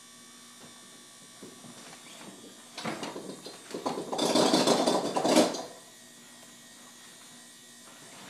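LG refrigerator humming steadily, with a loud buzzing rattle that starts about three seconds in and stops suddenly some two and a half seconds later.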